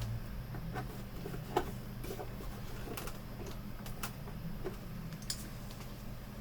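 Plastic pry tool working at the clipped plastic bezel of a monitor: scattered small clicks and scrapes, the sharpest about one and a half seconds in, over a steady low hum.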